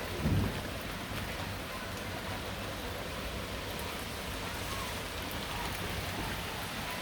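Heavy rain falling steadily, with a brief low thump about a third of a second in.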